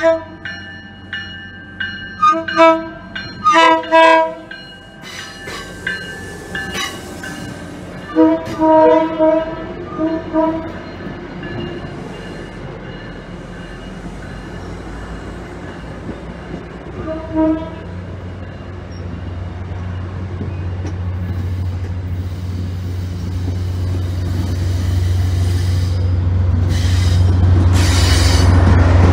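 Locomotive air horn sounding a series of short blasts in a chord, then a train approaching, its engine and wheel rumble growing steadily louder and rising to a rush of rail noise near the end.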